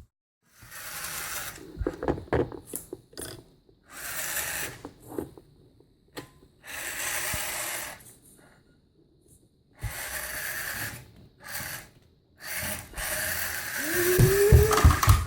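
Toy remote-control monster truck's electric motor and gears whirring in five short bursts as it is driven in stops and starts. Several heavy knocks sound near the end.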